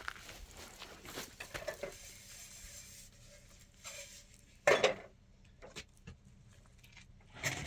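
Light clinks and clatter of household things, with one louder short sound about five seconds in.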